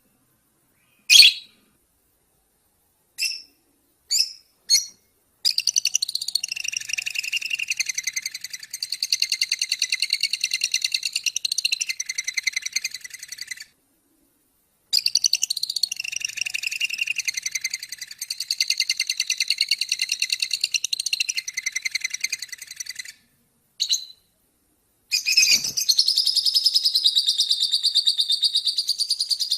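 A small songbird singing: a few short single calls, then long runs of rapid chattering trills, broken by two brief pauses.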